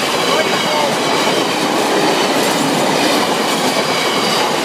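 Freight train passing close by: the wagons behind a Class 60 diesel locomotive roll past as a steady, loud noise of wheels on the rails.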